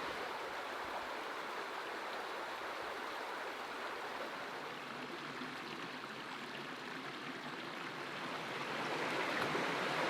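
A river running over rocks, a steady rushing of water that grows a little louder over the last couple of seconds.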